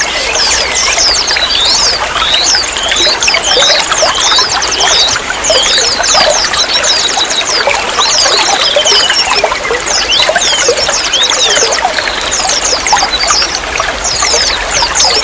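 Running water trickling and pouring steadily, with many small birds chirping rapidly over it in quick high falling notes.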